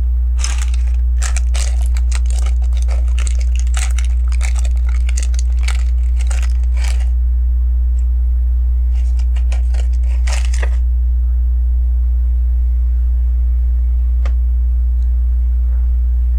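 Small plastic LEGO pieces clicking and clattering as they are handled and sorted, a rapid run of clicks for about seven seconds, another brief flurry around ten seconds in and a single click near the end. A steady low electrical hum runs underneath.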